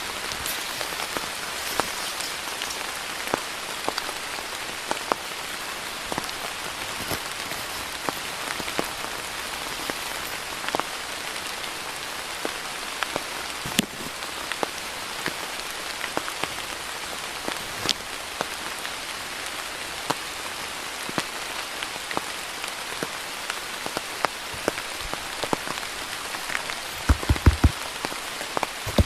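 Steady rain falling, with many separate drops ticking on nearby surfaces. A few louder dull thumps come close together near the end.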